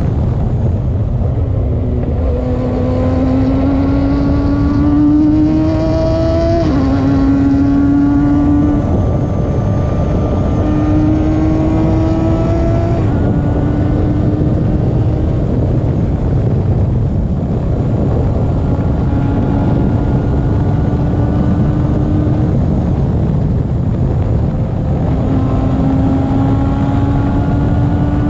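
Radical race car engine pulling hard through the gears: its pitch climbs, then drops sharply at each upshift, several times over, under a constant low rumble.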